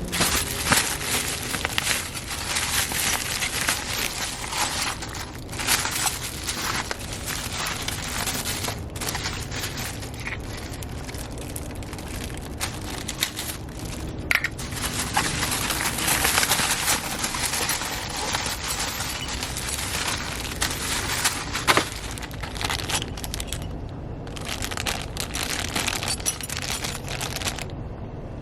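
Packaging being handled and unwrapped: plastic and cardboard rustling and crinkling, on and off, with a few sharp clicks and knocks.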